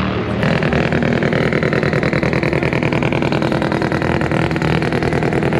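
A car engine running loudly and steadily, its exhaust pulsing rapidly and evenly; it comes in about half a second in.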